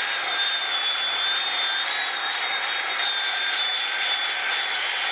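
Belt sander with a coarse 36-grit belt running steadily with a high whine over a hiss, sanding down the high spots on top of a wooden stump.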